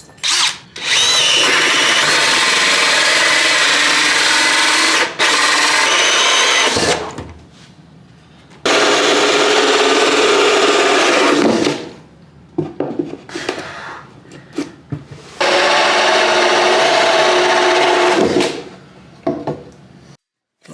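Power drill running in three long, steady bursts of a few seconds each, with short quiet gaps between.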